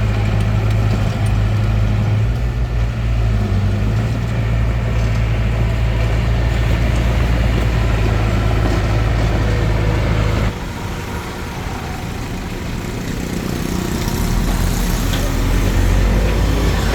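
Small bulldozer's diesel engine running steadily with a low hum under working load. About ten seconds in it drops suddenly, then builds back up near the end as the revs rise again.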